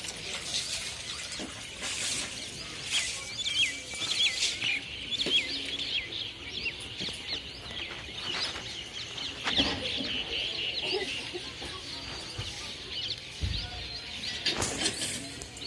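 Birds calling: many short, quick, high chirps overlapping throughout, with a few dull bumps.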